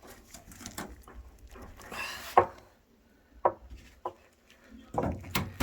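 Scattered knocks and clicks, with a brief scrape, as the plastic tabs and parts of an LG front-load washer are worked loose by hand during disassembly. The sharpest knock comes about halfway through, and several more cluster near the end.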